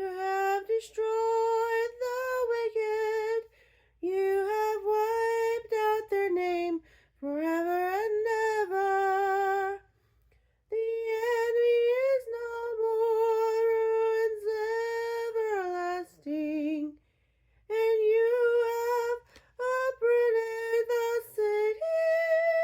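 Solo mezzo-soprano female voice singing a psalm unaccompanied, in held, sustained phrases separated by brief silences.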